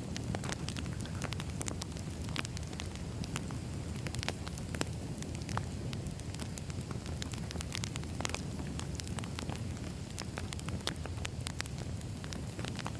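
Campfire crackling: a steady low rumble of flames with frequent sharp, irregular pops and snaps.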